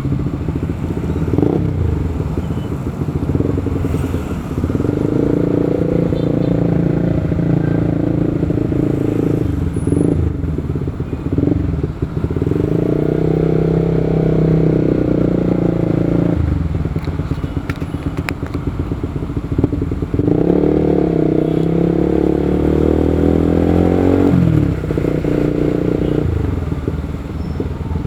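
Motorcycle engine running on the move, pulling harder and easing off about three times, its pitch rising during the last pull.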